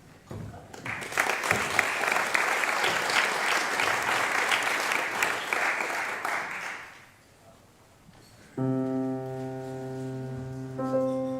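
Audience applause for about seven seconds, dying away; after a short pause, a keyboard begins playing sustained chords.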